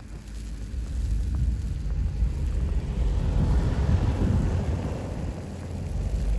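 Wind buffeting the microphone in a snowstorm: a heavy, uneven low rumble that swells about halfway through and eases near the end.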